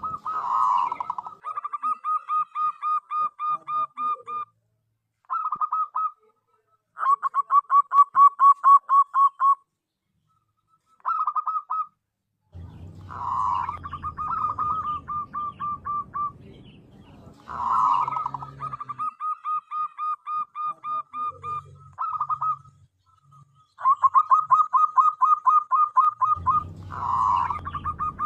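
Zebra dove (perkutut) cooing: repeated phrases of rapid staccato notes, each a few seconds long with brief pauses between. A low rumble sits under some of the phrases.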